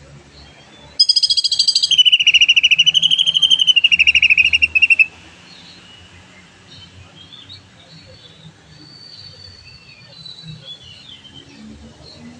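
Cucak ijo (green leafbird) singing a loud 'tembakan' burst: a rapid, pulsing, wavering phrase that starts about a second in and lasts about four seconds, then gives way to soft, scattered chirps and a thin high note.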